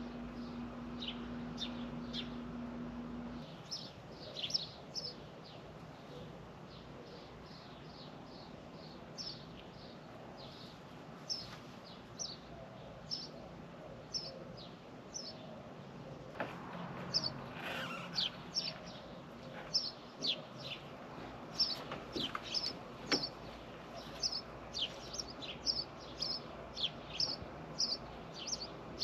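Small birds chirping, with many short, quick chirps that fall in pitch, coming more thickly in the second half. A low steady hum stops about three and a half seconds in.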